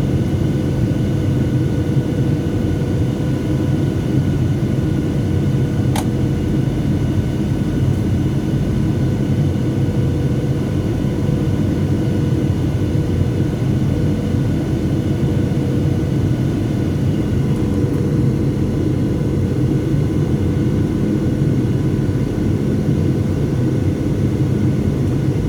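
Cabin noise inside a Boeing 737-700: the steady drone of its CFM56-7B jet engines and airflow, with a steady hum and a faint high whine on top. A brief click about six seconds in.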